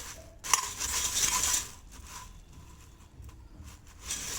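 A spoon stirring puffed rice and melting butter in a pan on the stove: rustling scrapes and light knocks against the pan, in a bout about half a second in and again near the end.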